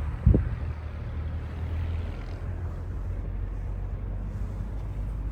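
A single thump about a third of a second in, then a car engine idling with a steady low hum.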